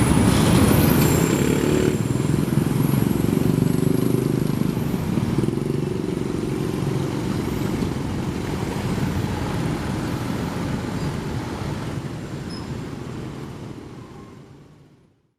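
Road traffic of motorbikes and cars passing over a railway level crossing, a steady low rumble that fades out over the last few seconds.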